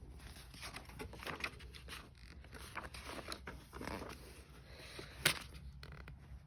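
Book pages rustling and scraping as the book is handled and a page is turned, with one sharp tap about five seconds in.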